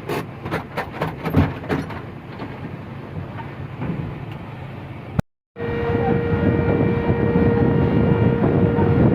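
A heavy vehicle's engine running: a few knocks and rattles in the first two seconds, then, after a brief cut, a louder steady drone with a constant whine.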